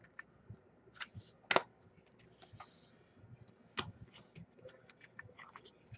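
Scattered light clicks and taps with no speech. Two louder knocks come about one and a half seconds in and just before four seconds in.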